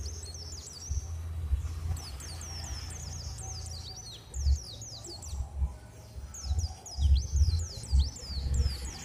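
Small birds chirping: many quick, high, downward-sweeping notes, repeated throughout. Underneath is a low rumble that swells into several loud low thumps in the second half.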